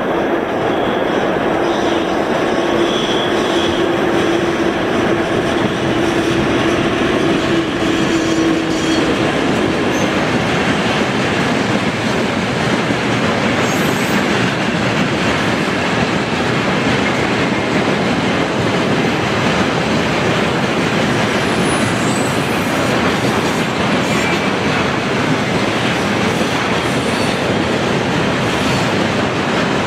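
A VL11 electric locomotive and a long train of railway tank cars rolling past close by, the wheels rattling steadily on the rails. A steady hum accompanies the locomotive during roughly the first nine seconds, then only the cars' wheel noise goes on.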